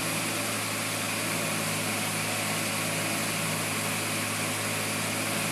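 Audi 200 turbo's 10-valve MC turbocharged inline five-cylinder engine idling steadily at about 1200 rpm, with its lambda sensor unplugged while the engine controller is being tuned.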